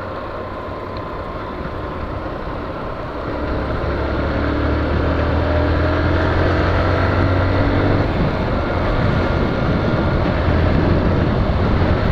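Honda CG 125 Fan motorcycle's single-cylinder engine running as the bike is ridden, with wind and road noise on the action-camera microphone. It grows louder about three and a half seconds in and stays up.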